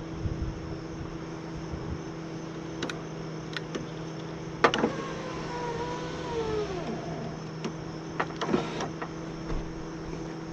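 Power window motor and new regulator in a 2002 Honda Civic door, running the glass with a steady hum. There is a loud click about halfway through, then a wavering squeal, then more clicks. The glass is not moving smoothly, and the owner wonders whether the motor or cables are in the wrong position.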